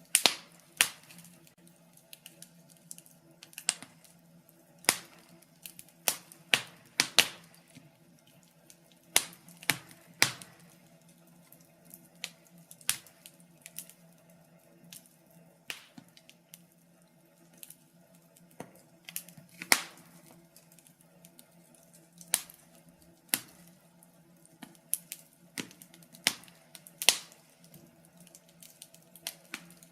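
Wood fire in a fireplace crackling, with irregular sharp pops and snaps from the burning logs over a faint steady low hum.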